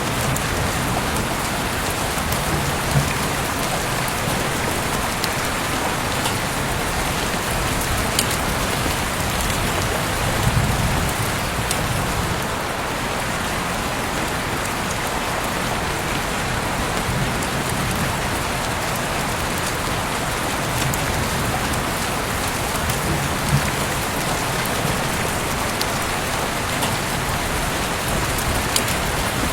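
Heavy rain falling steadily, a dense hiss of drops with scattered sharper drips and brief low swells.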